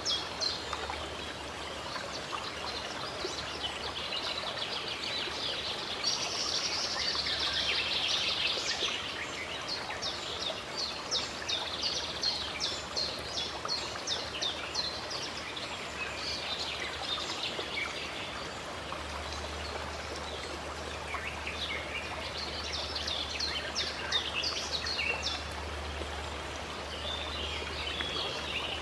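Water running and trickling steadily, like a small stream or spring, with songbirds chirping in quick strings of short notes over it.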